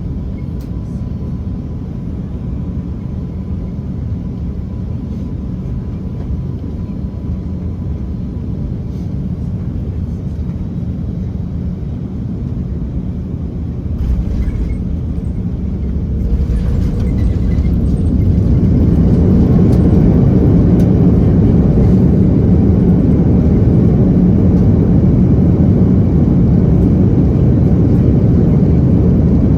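Cabin noise inside an Airbus A330-300 with Rolls-Royce Trent 700 engines during landing: a steady low rumble of engines and airflow that steps up about halfway through and then builds to a much louder, fuller rumble over the next few seconds.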